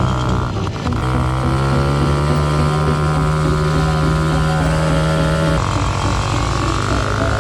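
Small motorbike engine running at steady revs under way, with a brief dip in revs about a second in and a step down in pitch near the end, with some wind on the microphone.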